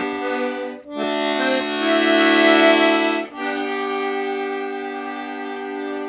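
Accordion playing three long held chords, with short breaks about a second in and a little past three seconds in.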